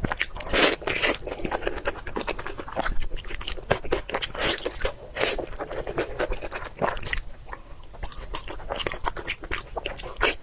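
Close-miked chewing: a person biting into and crunching through food, with many short, irregular crunches.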